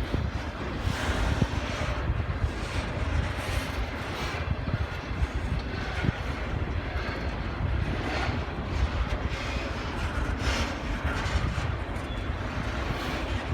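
A train passing: a steady low rumble with a hiss of wheel and rail noise.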